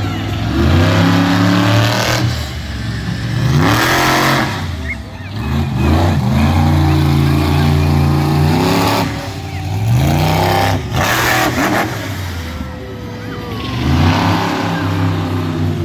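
Monster truck engine revving hard in repeated surges, its pitch climbing and dropping again several times. A few short bursts of noise come in between.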